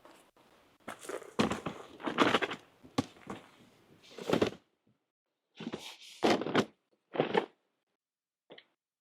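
Irregular knocks and clatters of objects being handled, in short separate bursts.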